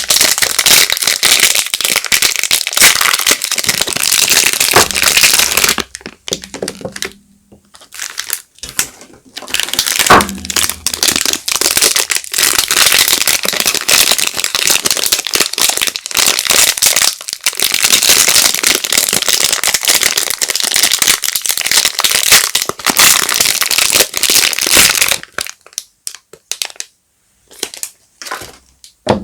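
Soap wrappers crinkling and rustling as bars of soap are unwrapped by hand, in long dense stretches that pause briefly about six seconds in and again near the end.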